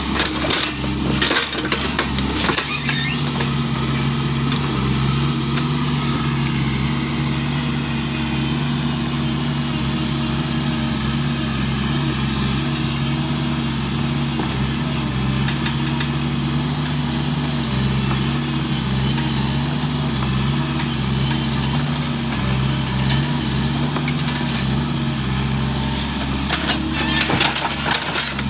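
Hydraulic excavator's diesel engine running steadily under digging load, its pitch dipping and recovering a little. Bursts of clattering knocks come in the first few seconds and again near the end.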